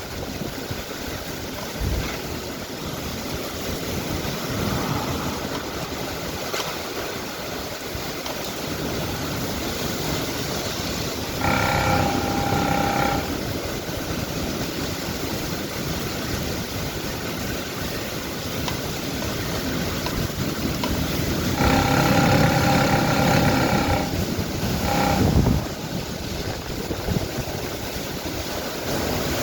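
Heavy thunderstorm downpour: a steady, dense hiss of rain and running water. Over it, a steady pitched tone is held twice, for about a second and a half about a third of the way in and for about two seconds later on, followed by a short one.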